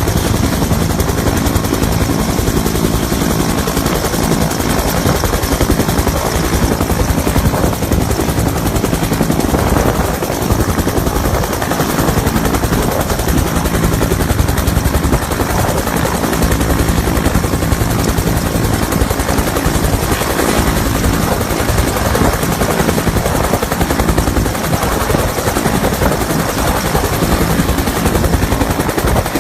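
Search-and-rescue helicopter running loudly and steadily at close range, its rotors giving a rapid chopping beat over the engine's roar.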